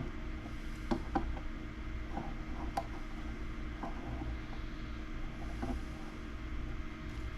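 Steady low mechanical hum, with a few faint clicks and taps of an egg being handled during candling.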